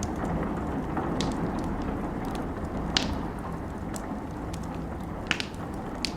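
Wood fire crackling with scattered sharp pops, the loudest about three seconds in and two more near the end, over a steady hiss of rain.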